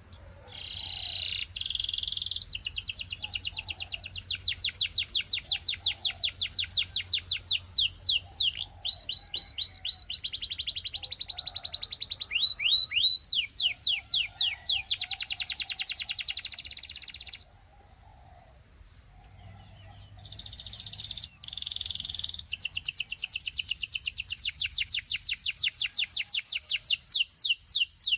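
Canary singing in long rolling runs of fast repeated trill notes and quick up-and-down sweeps. It stops for about two seconds roughly two-thirds of the way through, then starts again.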